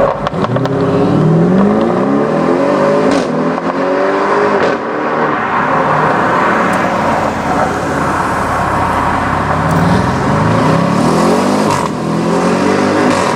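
Audi RS6 accelerating hard, its engine note climbing in pitch through the gears with short breaks at the shifts about three and five seconds in, then another rising pull from about ten seconds in. A few sharp exhaust cracks come at the shifts.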